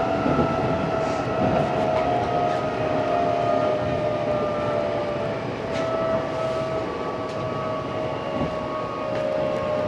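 Odakyu 8000-series train's Mitsubishi SiC-VVVF inverter and traction motors whining under a steady rumble of wheels on rail, heard inside the car. The whine is two tones, one an octave above the other, that slowly fall in pitch as the train slows, with a few faint clicks from the track.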